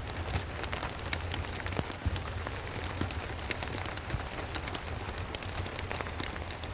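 Steady rain with a fireplace crackling: an even hiss dotted with frequent sharp crackles, over a steady low rumble.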